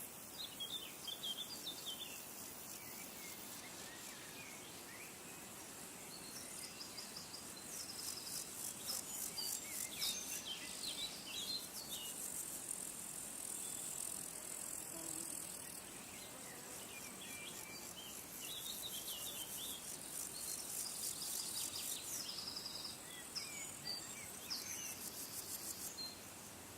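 Insects trilling in high-pitched, finely pulsed bouts that start and stop, with small birds chirping over them.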